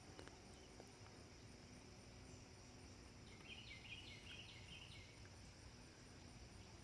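Near silence: faint outdoor background, with a brief run of faint chirps about three seconds in.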